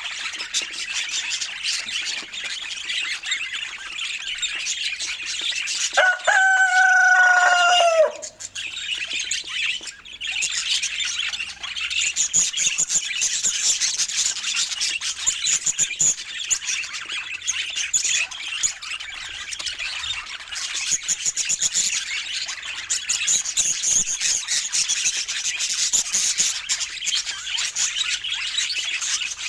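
Budgerigars chattering and chirping continuously in a busy, high-pitched warble. About six seconds in comes one loud, drawn-out bird call lasting about two seconds that drops in pitch at the end.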